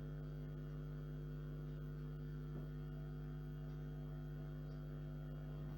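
Steady low electrical hum with several even overtones, unchanging throughout; nothing else stands out.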